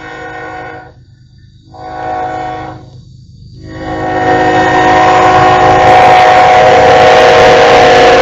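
Locomotive horn sounding a chord in blasts with two short breaks. The last blast is long and grows loud as the train draws close, with rumble and rail noise rising beneath it.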